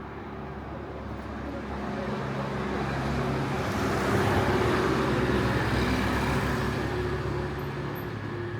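A motor vehicle's engine passing close by, growing louder to a peak about four seconds in and then fading away.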